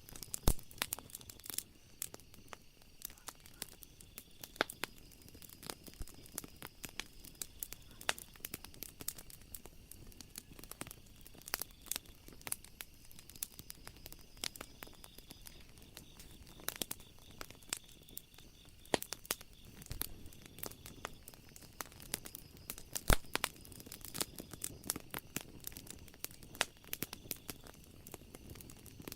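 Wood fire crackling in a fireplace: a dense run of irregular sharp snaps and pops, with a louder pop near the start and another late on. A faint steady high tone sits in the background.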